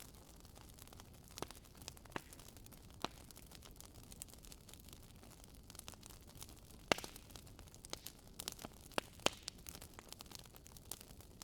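Wood fire crackling in a fireplace: irregular sharp pops and snaps over a faint steady background, busier in the second half, with the loudest pop about seven seconds in.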